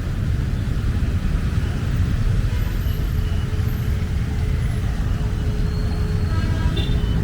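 City street traffic noise: a steady low rumble of vehicles. A faint held tone runs through the middle, and a few brief faint higher tones come near the end.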